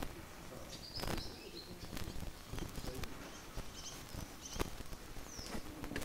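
Faint high bird chirps several times, one of them a short falling call near the end, with a few footsteps knocking on stony ground.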